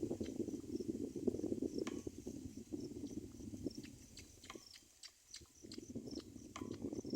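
Crackling rustle of movement in a bird's nest, fading out briefly a little past the middle and returning near the end, with scattered clicks. Faint high chirps repeat about three times a second in the background.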